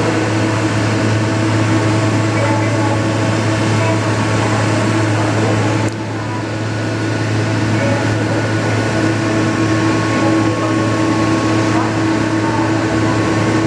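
Boeing 777-200 jet engines running with a steady drone and fixed whining tones above it. The sound drops suddenly about six seconds in, then builds back up over the next few seconds.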